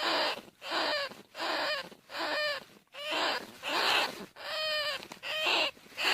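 Bandicoot rat squealing calls, short wavering squeals repeated back to back, nearly two a second, used as a lure call to draw bandicoot rats in.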